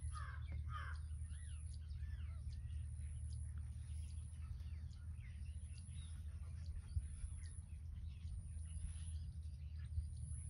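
Small birds chirping in quick rising and falling calls, thickest in the first second or so, over a steady low hum.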